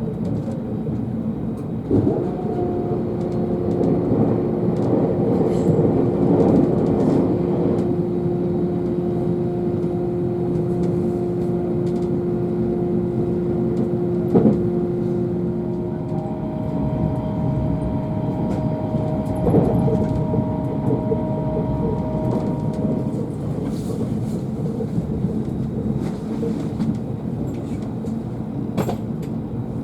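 Electric express train running along the line, heard from inside the carriage: a steady rumble of the wheels on the rails with a held tone that gives way to a higher tone about halfway through. There are a few sharp knocks along the way.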